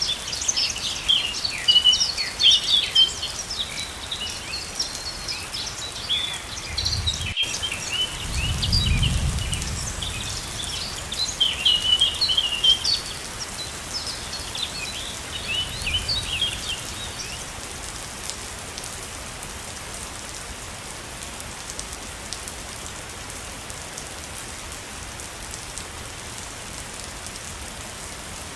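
Waterfall running steadily, with birds chirping busily over it; the chirping dies away after about seventeen seconds. A brief low rumble comes in around eight to ten seconds.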